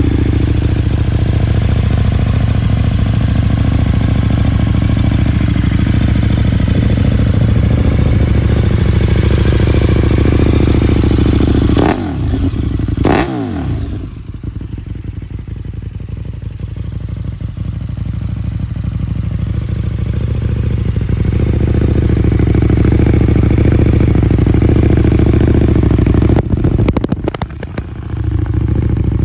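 KTM 1290 Super Duke R's V-twin engine running through its Scorpion exhaust. Twice, about twelve seconds in, the revs drop sharply. After that it runs quieter and slowly builds back up, with one more brief dip near the end.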